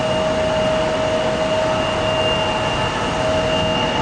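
Jet airliner engines running at high power for takeoff: a steady rush with a steady high whine over it.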